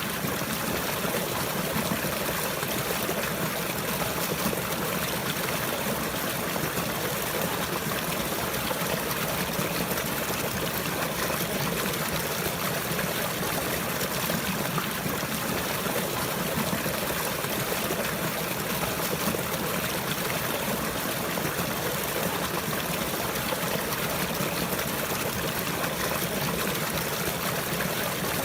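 Water flowing and trickling steadily in a continuous, even wash with no breaks.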